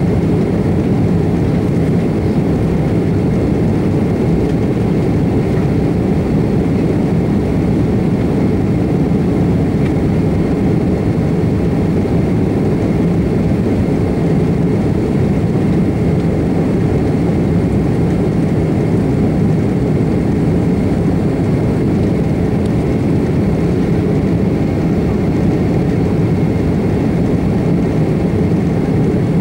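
General Electric CF6 turbofan engines of an Airbus A330-300 running steadily at high thrust: a loud, even, deep rumble with a faint steady whine above it.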